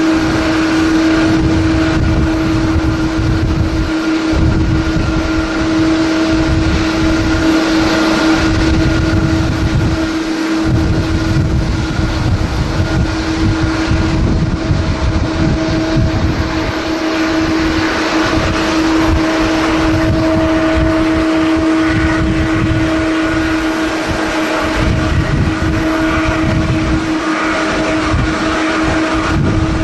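Strong wind buffeting the microphone in irregular low rumbles, over a steady, unchanging engine drone from jet airliners at the airport.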